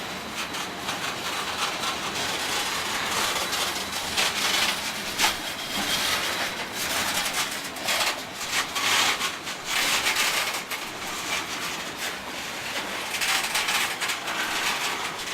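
Freight train cars rolling slowly past, their steel wheels clacking irregularly over the rail joints along with a steady steel-on-rail rumble and scrape.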